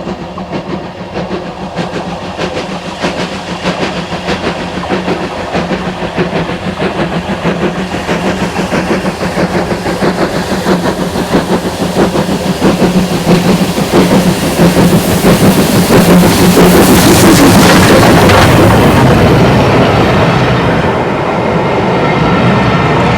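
Steam-hauled train approaching with a rhythmic beat that grows steadily louder, passing closest about three-quarters of the way through, then running on as a steadier rumble that fades a little.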